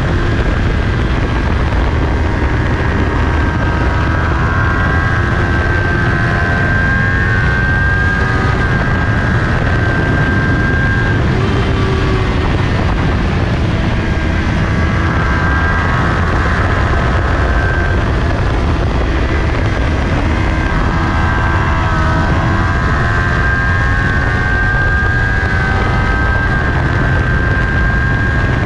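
Kawasaki Ninja 400 parallel-twin engine held at high revs at racing speed, recorded on the bike with heavy wind noise on the microphone. The engine note climbs and drops as the rider works the throttle and gears, rising again as the bike accelerates onto the straight near the end.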